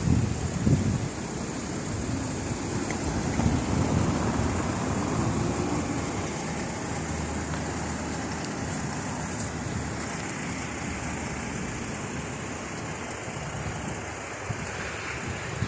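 Steady road and traffic noise from a car on the move.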